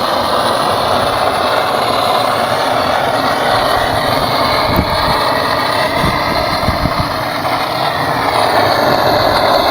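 Gas blowtorch burning with a steady hiss, melting beeswax scraps onto wooden bee hive top bars.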